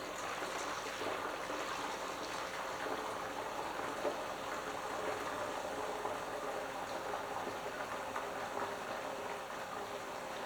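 Hot water pouring steadily through a funnel into a steel tractor fuel tank, mixing with tank cleaner already inside.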